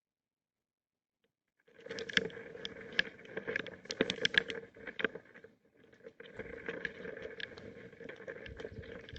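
Rain pattering, with many sharp drop clicks, starting after a short silence and briefly dropping out about halfway through.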